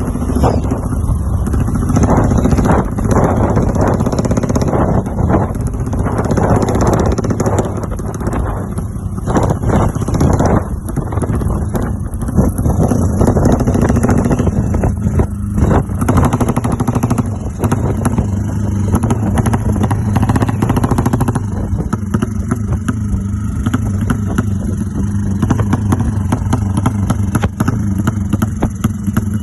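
A newly fitted engine running loud and continuously while it is being set up. The rapid firing is uneven and clattery at first, then settles into a steadier low hum about twenty seconds in.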